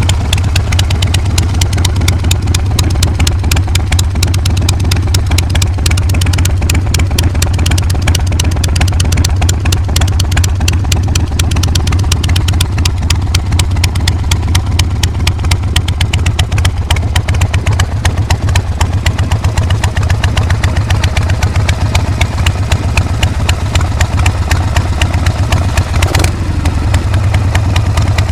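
Harley-Davidson Shovelhead V-twin motorcycle engine idling steadily, with a sharp click near the end.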